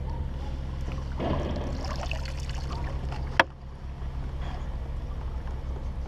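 Water splashing and dripping beside a kayak as a hooked redfin perch is brought in and netted, then a single sharp knock about three and a half seconds in, over a steady low hum.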